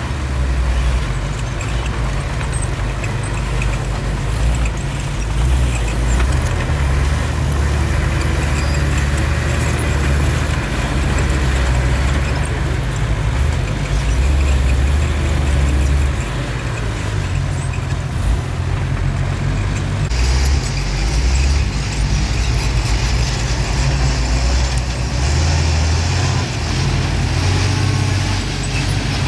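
Bulldozer's diesel engine running with a deep, steady low rumble; the higher-pitched noise grows brighter about two-thirds of the way through.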